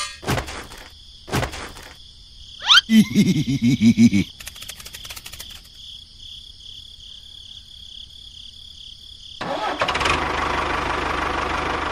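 An engine starting: a short run of rhythmic chugs about three seconds in, like an engine cranking. From about nine and a half seconds on comes a steady running noise.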